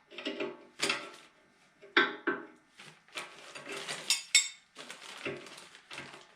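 Metal tools and parts clinking and clattering while being handled: a string of sharp knocks, several with a short metallic ring, and rummaging noise in the middle.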